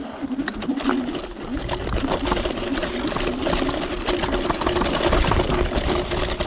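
TRBK-M2 electric hyperscooter's motor whining while riding off-road, its pitch wavering with the throttle, over a steady rattle of many quick clicks.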